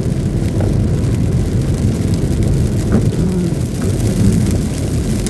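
Car interior noise while driving on a rain-soaked, flooded street: a steady low rumble of tyres through water and road noise, with rain on the car.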